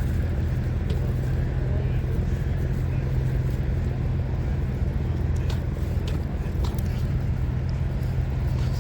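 Vehicle engine idling steadily with a low, even hum, with a few faint ticks.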